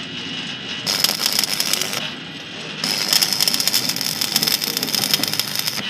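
Electric arc welding: a dense crackling sizzle with a steady high hiss, struck twice, first for about a second, then for about three seconds.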